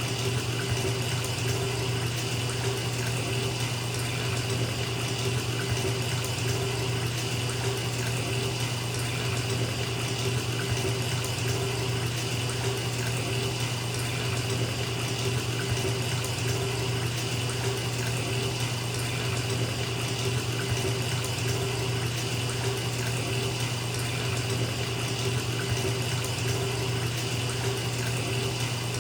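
Bathtub tap running steadily, water pouring into a filling tub with a constant rushing sound and a low hum beneath it.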